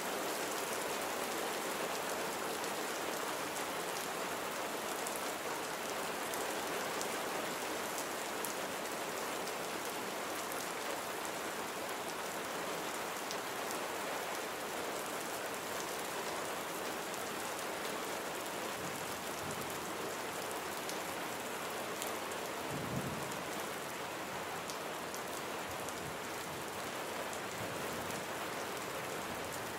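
Steady rain falling, with individual drops ticking through the hiss. A brief low rumble comes about three-quarters of the way through.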